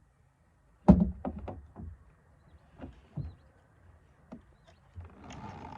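Knocks and clatter in a kayak: one sharp knock about a second in, then a scatter of lighter clicks and taps, and a short rustling near the end.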